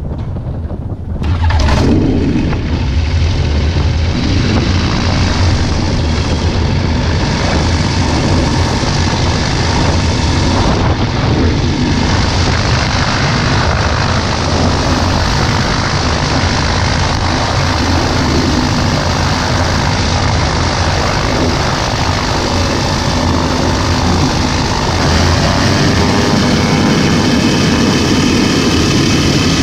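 Ultralight aircraft's engine and propeller running steadily at power, loud and continuous, jumping up in level about a second and a half in.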